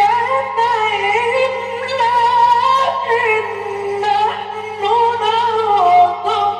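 A male Quran reciter's voice in melodic tajwid recitation, drawing out a long, ornamented phrase whose pitch winds up and down, over a steady low hum from the old recording.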